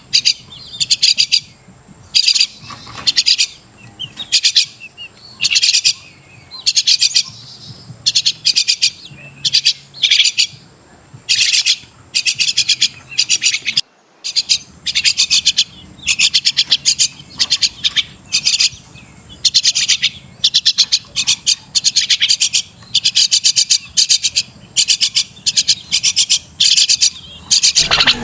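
Crested myna calling: short bursts of rapid, high chattering notes, repeated about once a second, with a brief gap about halfway through.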